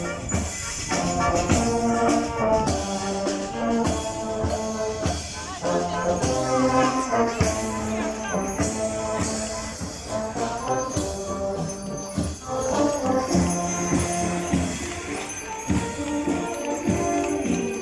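Military brass band playing, with held brass notes over steady percussion.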